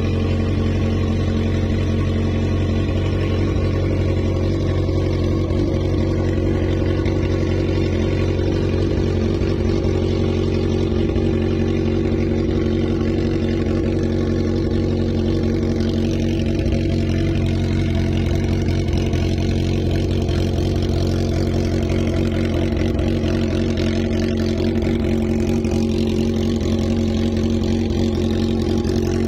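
2012 Kawasaki Z1000's 1043 cc four-cylinder engine idling steadily through an Akrapovic full-system megaphone exhaust.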